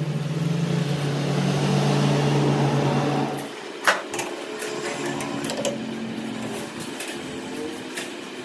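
A workshop machine's motor running with a steady hum, which cuts off about a third of the way in. After it stops come a few scattered sharp clicks and knocks, the loudest soon after the motor stops.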